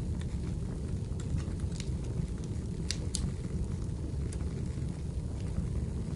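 Wood fire burning in a fireplace: a steady low rumble with scattered sharp crackles and pops, the loudest pair about three seconds in.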